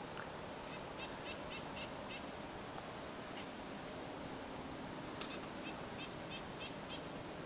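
Faint outdoor quiet with a bird calling: a quick run of about five short, high notes, repeated once more a few seconds later, and a single light click between them.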